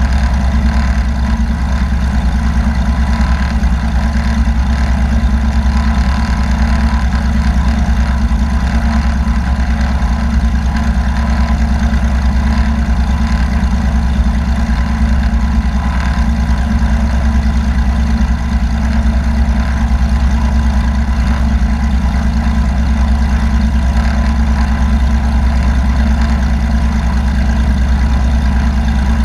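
Light aircraft's piston engine and propeller droning steadily, heard from on board, with an unchanging pitch and level throughout.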